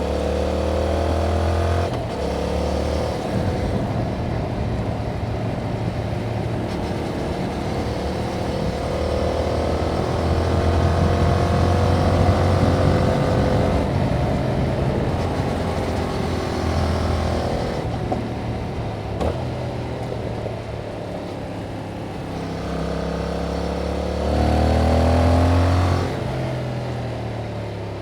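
Yamaha MT-07's 689 cc parallel-twin engine through its stock exhaust, under way: it pulls up in revs and eases off several times as the rider works the throttle and changes gear, loudest about ten seconds in and again near the end.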